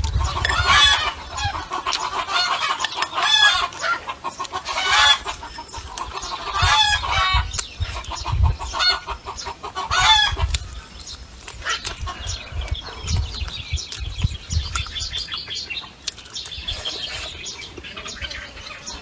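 Domestic hen cackling: the egg song a hen gives after laying, a run of loud repeated calls that grow fainter and sparser after about ten seconds.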